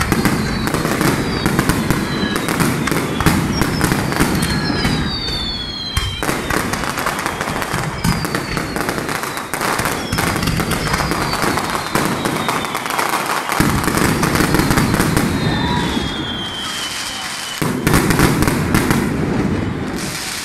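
Fireworks display: aerial shells bursting in quick succession with crackling, under a heavy low rumble. Several whistles slide down in pitch over the bursts.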